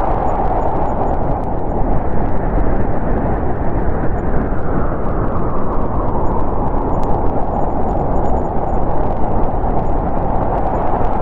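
Snowstorm wind blowing hard and steadily, a rushing noise that eases a little in the middle and swells again near the end.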